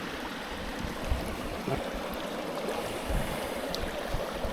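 Small mountain stream flowing over rocks: a steady rush of moving water, with a few faint low thumps.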